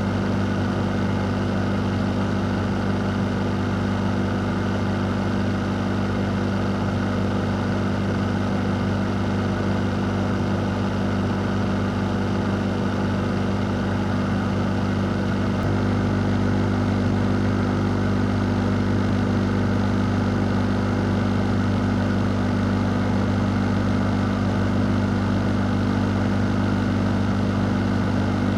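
Electric fan motor running steadily, a low constant hum under a broad rush of moving air.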